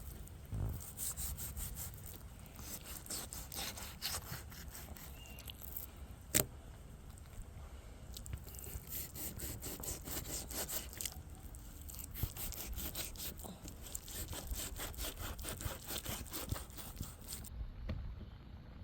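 Quick, repeated scraping or rubbing strokes in uneven runs, with one sharper knock about six seconds in; the strokes stop shortly before the end.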